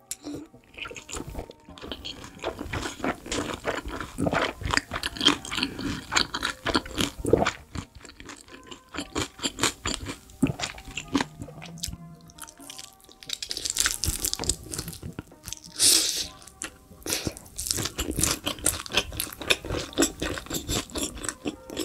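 Close-miked mukbang eating sounds: crunchy bites and chewing of sauced fried chicken wings as the meat is pulled off the bone, with background music playing underneath.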